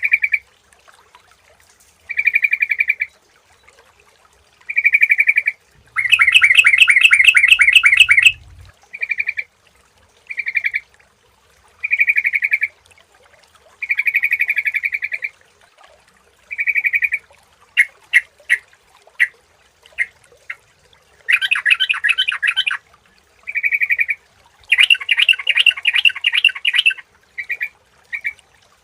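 Yellow-vented bulbul (trucukan) calling: short, bubbly phrases repeated every second or two. Several longer, louder, rapid chattering phrases break in, around six seconds in and twice more near the end.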